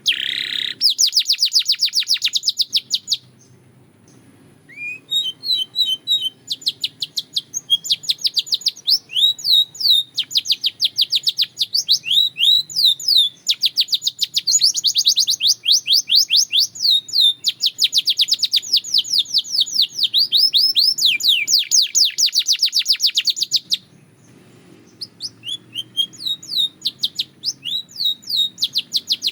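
Canary singing long runs of fast, high-pitched repeated notes and trills. The song breaks off briefly about three seconds in and again near the end.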